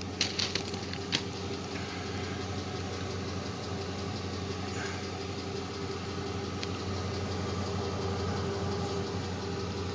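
A steady low machine hum, like an engine idling, with a few sharp clicks in the first second or so.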